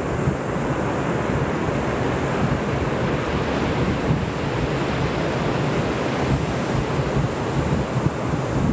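Ocean surf breaking steadily, mixed with wind buffeting the microphone in a constant low rush.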